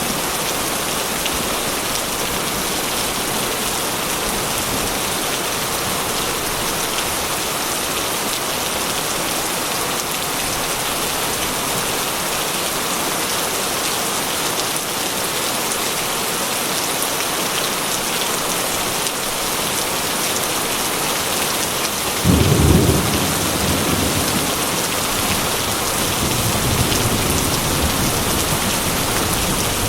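Heavy rain falling steadily, with a sudden low rumble of thunder about 22 seconds in that rolls on more quietly for several seconds.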